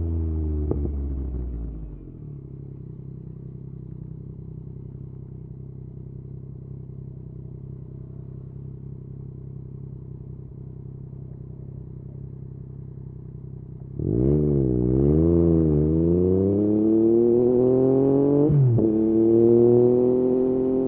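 Yamaha MT-09 three-cylinder engine through an Akrapovič exhaust: the revs drop away and it idles steadily for about twelve seconds. Near the end it suddenly gets loud, revs rising and falling as it pulls away, then climbs again after a brief break in the note, like a gear change.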